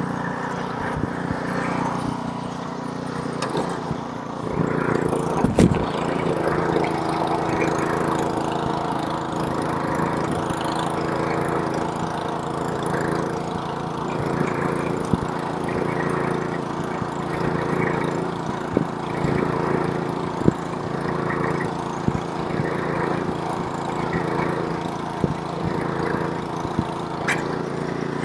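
Small-engine snowblower running steadily while clearing snow; its engine gets louder about four and a half seconds in. A few sharp knocks come through, the loudest about five and a half seconds in.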